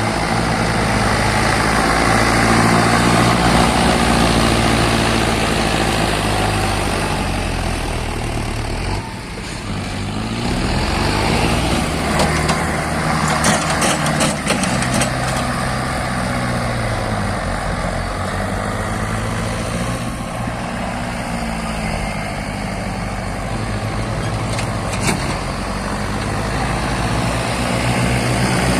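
Mahindra tractor's diesel engine running hard under load in sand, its pitch rising and falling as the revs change, with a brief drop about nine seconds in and some rattling clicks a few seconds later.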